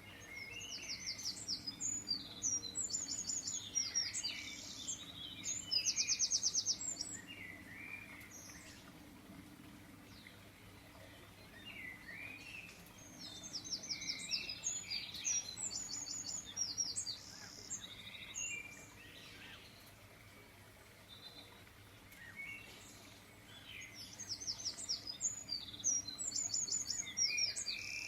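A songbird singing in three bouts of quick phrases: fast high trills mixed with short lower chirps, with pauses of a few seconds between bouts.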